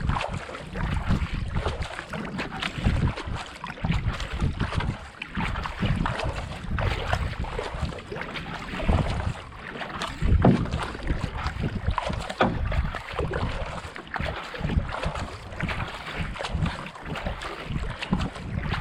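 Kayak paddle strokes dipping and pulling through canal water in a steady pace, with wind buffeting the microphone.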